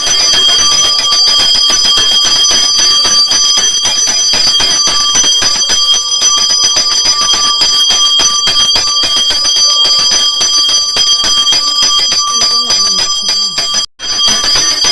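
Puja hand bell (ghanti) rung continuously and fast, a steady bright ringing with several clear tones, breaking off for a moment near the end.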